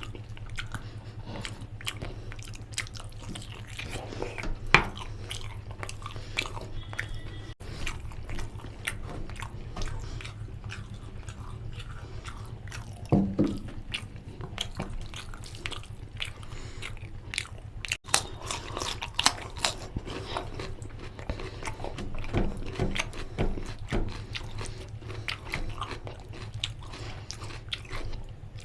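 Close-miked eating of mutton nalli curry with rice: a person chewing and biting with many short, irregular wet mouth clicks and smacks, a few of them louder.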